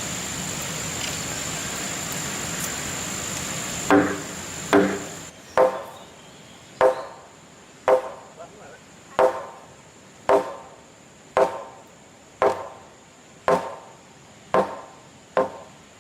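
A steady hiss, then from about four seconds in a series of about a dozen evenly spaced blows of a tool on wood, roughly one a second, each a sharp knock with a short ringing tail.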